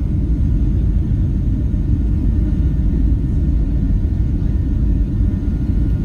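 Steady low rumble inside the cabin of a Boeing 737-700, from its CFM56-7B jet engines and airflow, even and unchanging.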